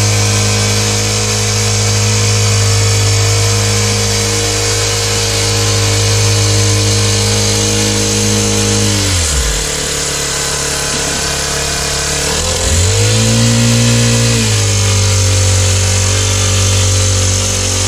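Power tool motor running steadily at high speed. It winds down almost to a stop about nine seconds in, then speeds back up about three seconds later and runs on.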